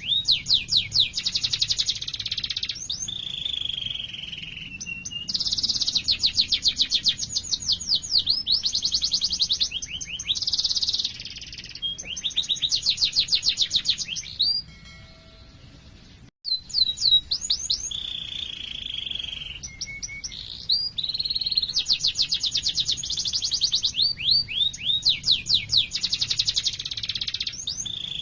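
Domestic canary singing long rolling trills: runs of fast repeated chirps and sweeping notes, with a few held buzzy notes, pausing for about two seconds halfway through.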